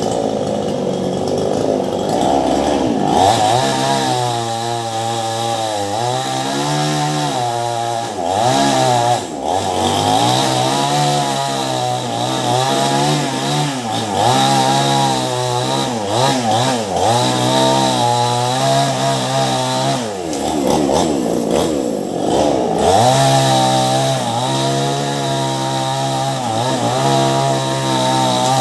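Ryu petrol chainsaw with a STIHL chain running at high revs while cutting into a large mango trunk, its engine pitch dipping and recovering again and again as the chain bogs under load.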